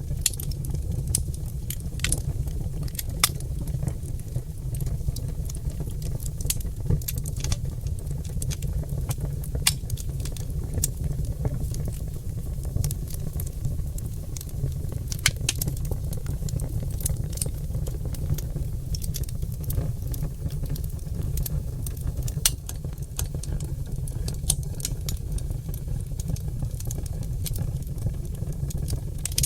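Oak logs burning in a fireplace, crackling with frequent sharp, irregular pops over a steady low rumble.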